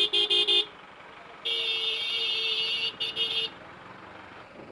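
Vehicle horn honking close by: four quick toots, a long blast of about a second and a half, then three more quick toots.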